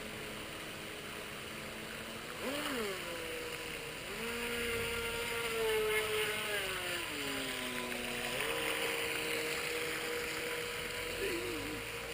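Feilun FT009 RC racing boat's electric motor whining, its pitch rising and falling with the throttle: a quick rise and fall about two and a half seconds in, a slow drop in pitch from about four to eight seconds, then a jump back up.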